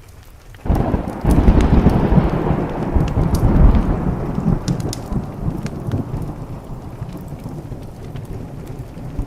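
A thunderclap breaks in under a second in and rolls into a long low rumble that peaks a few seconds later and slowly fades. Sharp crackles from a wood fire keep popping through it, over the hiss of rain.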